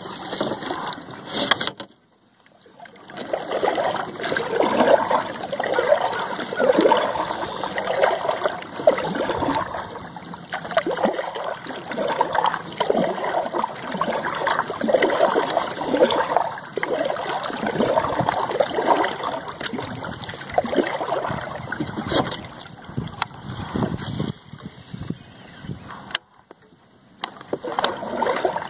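Water sloshing and lapping irregularly against a small boat's hull, broken by two brief drops to near silence, one about two seconds in and one near the end.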